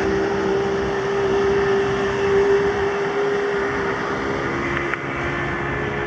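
Steady engine drone with a strong held hum; its pitch shifts slightly about four seconds in.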